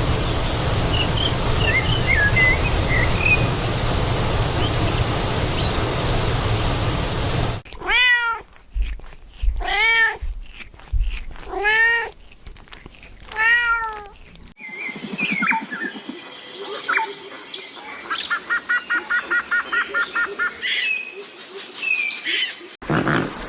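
A cat meowing four times, each call rising then falling, about two seconds apart, in the middle of the stretch. Before the meows a steady rushing noise with a few faint chirps; after them, bird chirps and a rapid trill.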